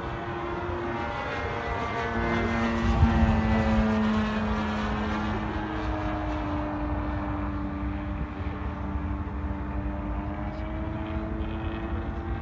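The single-cylinder two-stroke DLE-55cc gasoline engine of an RC airplane is running with its propeller in flight. The pitch rises about two seconds in and the engine is loudest a second or two later. The note then slowly falls as the plane passes and draws away.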